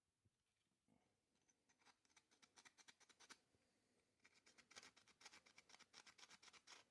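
Faint hand sanding of a basswood handle: quick back-and-forth scratchy strokes in two runs, the second starting about four seconds in.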